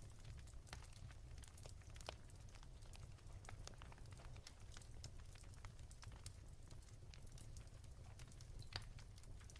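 Wood fire crackling softly: irregular small pops and snaps over a low steady rumble, with a sharper pop about two seconds in and another near the end.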